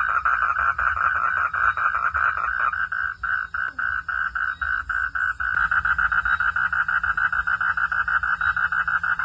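A chorus of frogs calling, a rapid pulsing trill of about six or seven pulses a second. It thins out and weakens for a couple of seconds partway through, then fills back in.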